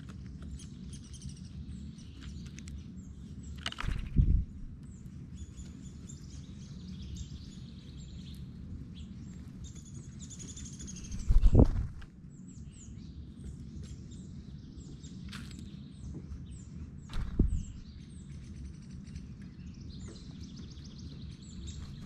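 Small wild birds chirping and calling on and off over a low background rumble, with three loud low bumps about four, eleven and seventeen seconds in.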